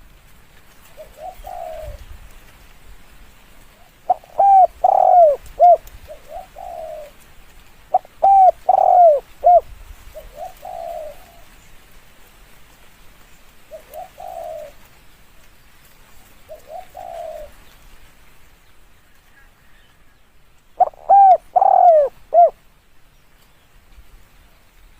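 Spotted dove cooing: three loud, multi-note coo phrases, with fainter single coos in between.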